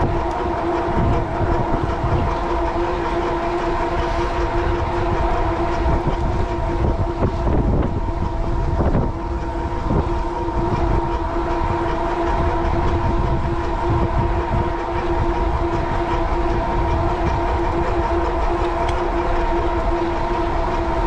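Steady whine from an e-bike's 750-watt Bafang rear hub motor under power while riding, holding one pitch with its overtones. Low wind buffeting on the microphone runs under it, swelling and easing.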